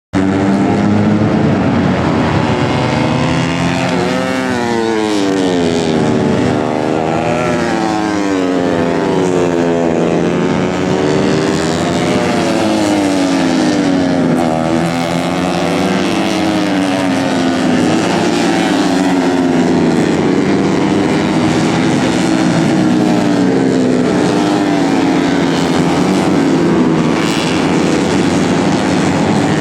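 Several tuned four-stroke 130 cc underbone race motorcycles revving hard as they pass, their engine pitches overlapping and rising and falling.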